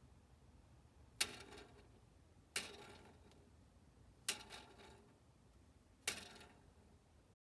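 Four sharp clicks or taps, spaced about one and a half to two seconds apart, each with a brief ringing tail.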